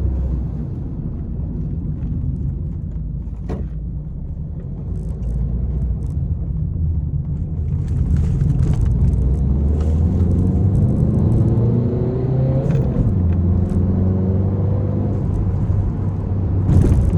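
Peugeot 301 engine and road rumble while driving, the engine note rising as the car accelerates through the middle, with scattered short clicks and knocks.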